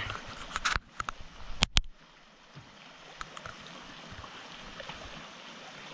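Water lapping and trickling around a kayak, steady and gentle, broken by a few sharp knocks in the first two seconds, the loudest two close together about a second and a half in.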